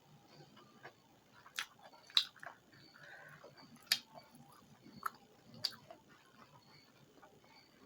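A person chewing a mouthful of rice and curry close to the microphone: soft wet mouth sounds, broken by about five sharp lip-smack clicks through the middle.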